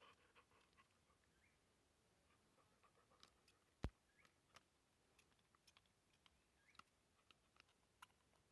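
Near silence with faint, scattered light clicks and taps, and one sharper click about four seconds in.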